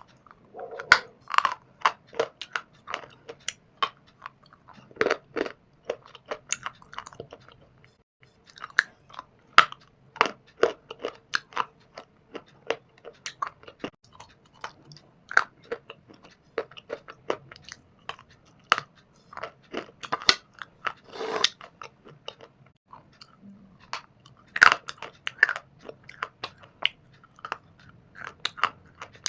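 Close-miked biting and chewing of shale stone and dry clay: a dense run of sharp, irregular crunches, several a second, with a couple of louder bites about two-thirds of the way through.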